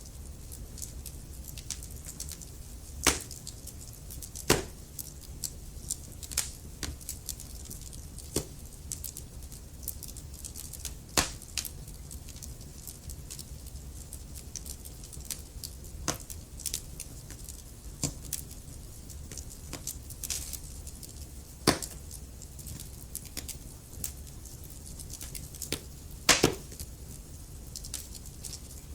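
Wood fire crackling in a fireplace: irregular snaps and pops over a low, steady rumble, with a few much louder pops spaced several seconds apart.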